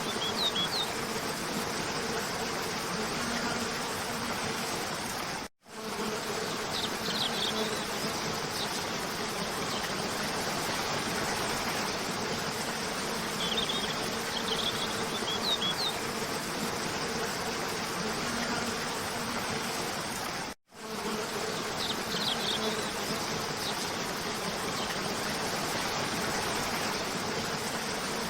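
Steady rushing of a cascading waterfall, with short bird chirps coming in small bursts every several seconds. The whole sound cuts out for a split second twice, at the seams of a looped recording.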